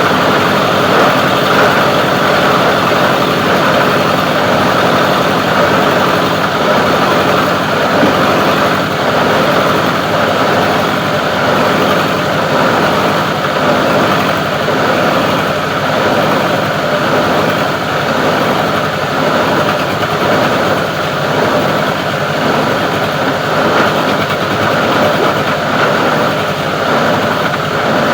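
Plastic recycling grinder machine running steadily with a loud, continuous mechanical drone.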